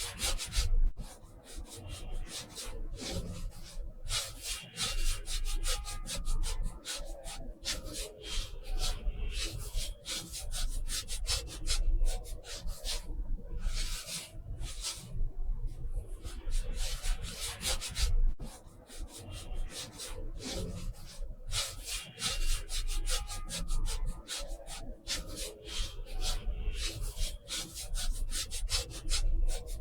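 Paintbrush stroking and rubbing on watercolor paper: many short, irregular scratchy strokes.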